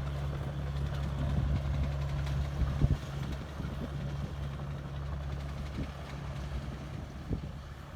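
Heavy diesel engine of an earthmoving machine running steadily with a low hum, and a single sharp knock about three seconds in.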